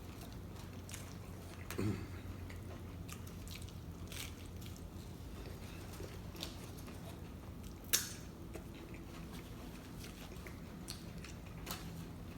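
People chewing and biting into tacos, with soft wet mouth sounds and scattered small clicks. There is a brief short voiced sound about two seconds in and a sharper click about eight seconds in, over a steady low hum.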